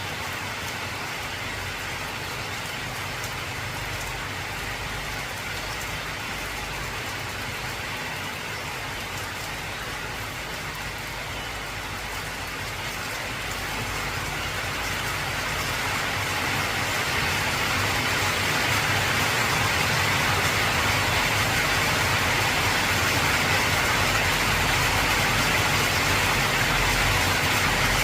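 Heavy rain drumming steadily on an old corrugated zinc (tin) roof, swelling louder about halfway through, with a low rumble underneath that grows near the end.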